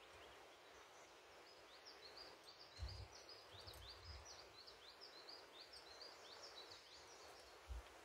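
Faint birdsong: a small bird sings a fast run of short high chirps for about five seconds, starting about two seconds in, over a low steady hiss. There are a few soft low thumps.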